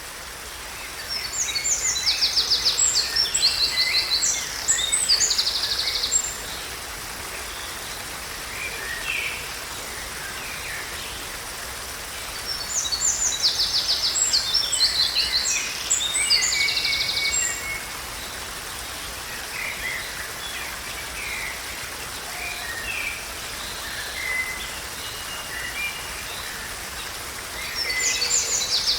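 Songbirds singing: bursts of fast, high trills and chirps, loudest for the first few seconds, again a little before the middle, and near the end, with scattered single calls between, over a steady outdoor hiss.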